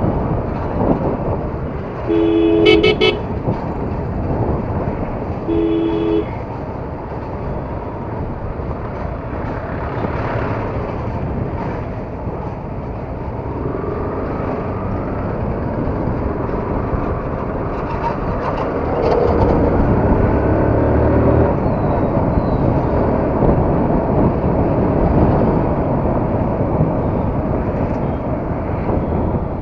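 Steady wind and traffic rush from a motorcycle ride on a Yamaha R15. A two-tone vehicle horn honks in a few short beeps about two seconds in, and once more about six seconds in.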